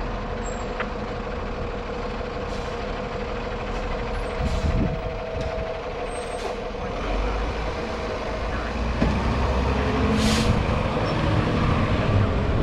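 Fire engine running, with a short hiss of its air brakes about ten seconds in; the engine grows louder over the last few seconds.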